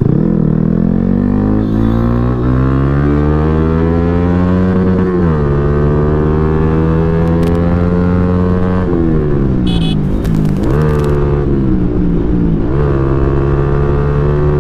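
Motorcycle with a loud aftermarket exhaust being ridden: the engine note climbs steadily for about five seconds, drops at a gear change, holds steady, then falls about nine seconds in and wavers at lower revs with short throttle blips.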